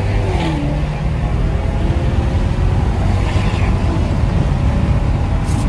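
Lexus GS430's 4.3-litre V8, running without catalytic converters, pulling under acceleration; its pitch drops about half a second in, then it carries on steadily.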